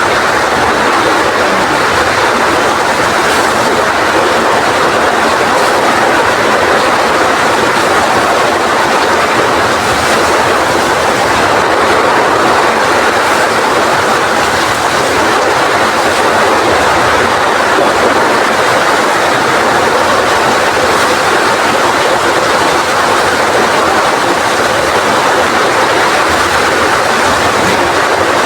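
Heavy rain pouring steadily in strong wind: a loud, even rush of noise.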